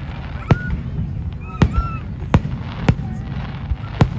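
Fireworks shells bursting: about five sharp bangs at uneven intervals, over a steady low rumble.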